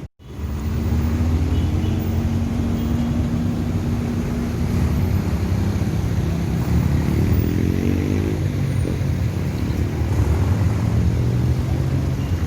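Motor vehicle engine and road noise running steadily, with a brief cut-out at the very start. The engine pitch rises and falls about seven seconds in.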